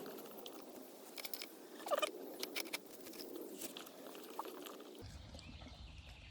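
Faint eating sounds: chewing, with scattered light clicks and scrapes of a utensil.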